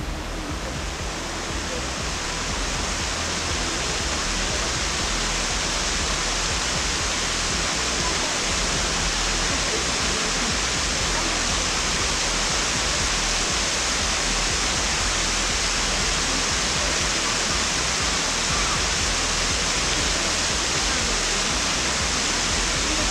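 Waterfall rushing: a steady, loud roar of falling water that grows a little louder over the first couple of seconds, then holds.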